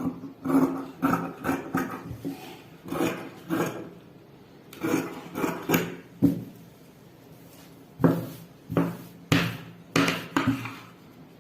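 Tailor's scissors cutting through blouse fabric: runs of short crunching snips, broken by a couple of pauses.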